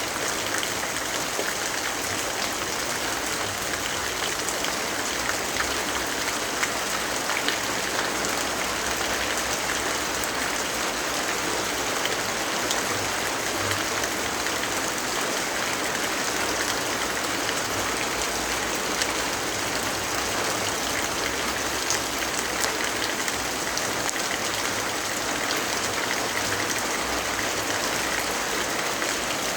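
Steady rainfall, an even hiss of rain with many small, scattered drop ticks throughout.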